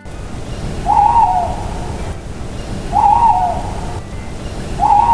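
Owl hooting: three hoots about two seconds apart, over a steady rushing background noise.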